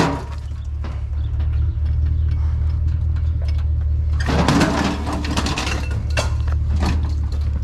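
Low, steady rumble of a truck engine running at idle, with a clattering scrape of scrap metal being shifted about four seconds in and a few knocks after it.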